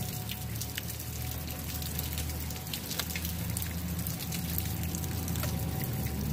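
Steady rain falling, with many sharp drops hitting and dripping close to the microphone.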